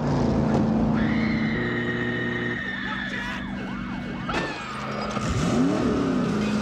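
Film soundtrack of a high-speed car chase: car engines running hard at high revs, with tyres squealing and the pitch sweeping up and down as the cars pass. There is one sharp crack a little over four seconds in.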